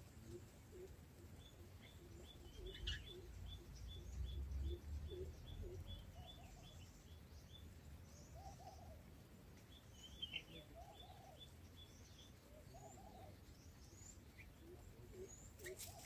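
Red-whiskered bulbul nestlings begging: a faint, quick run of short high chirps, about three to four a second, while the adult feeds them. The chirps pause for a few seconds and pick up again about ten seconds in, with a few soft lower notes between.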